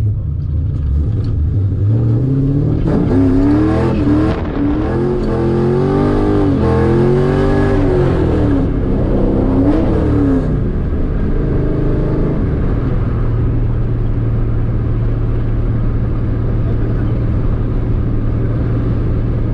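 Car engine heard from inside the cabin, pulling away with its pitch rising and falling for several seconds, then settling from about ten seconds in to a steady low drone at cruising speed.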